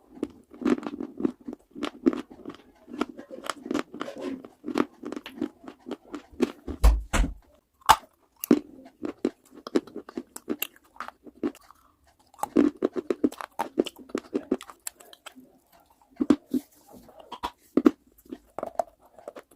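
Close-miked biting and chewing of hard, brittle baked clay: a dense run of sharp crunches, a short pause about twelve seconds in, then more crunching. A single low thud comes about seven seconds in.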